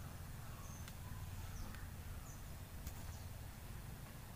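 Quiet background: a steady low hum with a few faint, short, high bird chirps.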